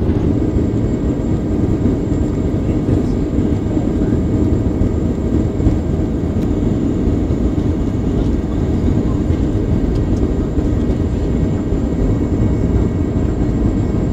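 Boeing 737-800 in flight, heard from inside the cabin: a loud, steady rumble of jet engines and airflow with faint steady whining tones above it.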